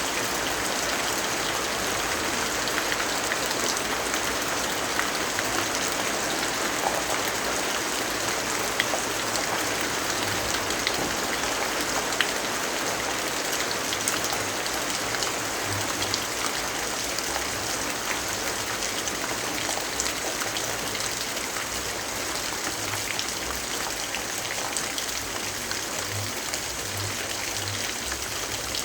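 Steady rainfall: an even hiss with many scattered sharp ticks of drops.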